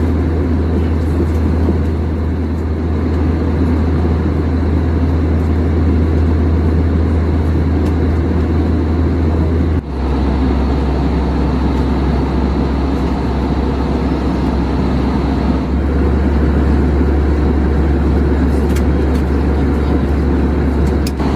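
Airbus A321 passenger cabin noise in cruise: a steady loud drone of engines and rushing airflow with a deep hum underneath. About ten seconds in it dips briefly and the low hum shifts slightly.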